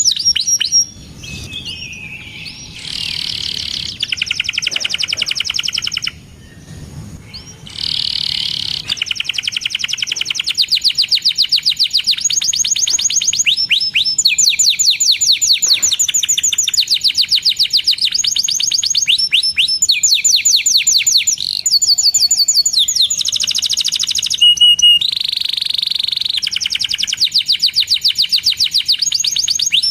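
Domestic canary singing vigorously in long, fast trills of rapidly repeated chirps, broken by brief pauses. The first several seconds are quieter and scratchier before the trilling runs on loud and steady.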